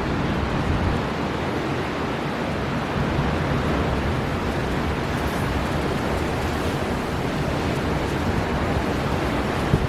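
Storm wind blowing hard off the sea, a steady dense rush with an uneven low rumble, mixed with surf.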